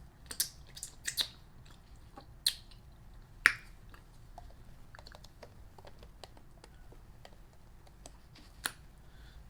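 Scattered sharp clicks and crinkles close to the microphone as takeout food and its containers are handled. The loudest snap comes about three and a half seconds in, with fainter ticks after it.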